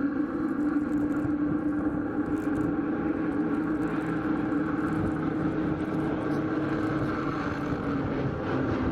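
The four radial engines of a B-17 Flying Fortress drone steadily at high power, as the bomber gets ready to lift off. Near the end the pitch drops slightly.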